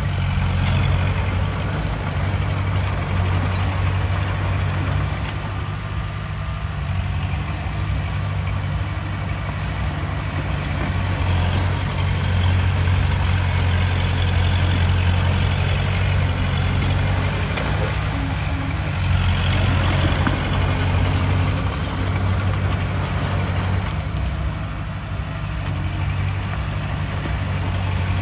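Heavy diesel earthmoving machinery running under load: a steady low engine drone with a rough haze over it, swelling in the middle and easing briefly near the end.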